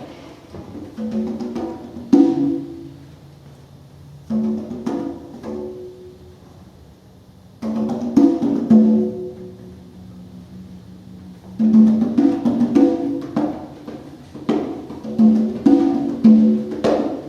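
Hand-played conga drums struck in short bursts of rapid strokes, separated by pauses. A low note is held underneath during the middle stretch.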